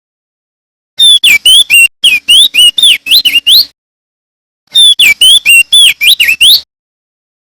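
Opior jambul (crested white-eye) singing two quick phrases of whistled notes that slide up and down, the first starting about a second in and the second a little after the middle, with silent gaps between.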